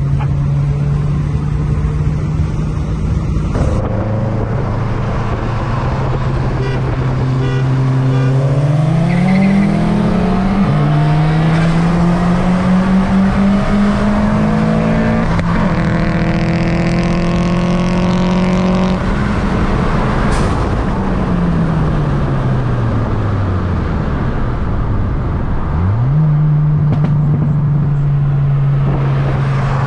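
Modified Ford Fiesta ST's turbocharged four-cylinder, with a hybrid turbo and cat-back exhaust, heard from inside the cabin at full throttle: the revs climb, drop sharply at each of two upshifts and climb again, then fall away as the throttle is released and settle to a steady cruise. The first few seconds hold a steadier engine note.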